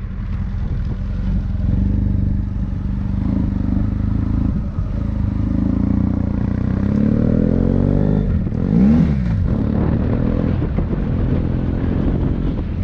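Motorcycle engine running while riding, its pitch slowly climbing over several seconds, then a brief sharp rise and fall in pitch about nine seconds in.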